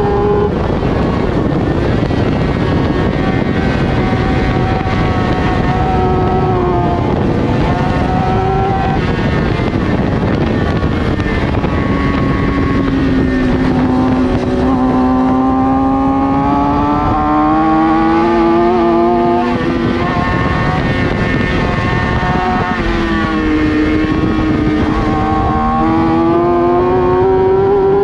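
Racing sportbike engine at speed, its revs climbing and falling repeatedly with a few sudden drops in pitch, over a steady rush of noise.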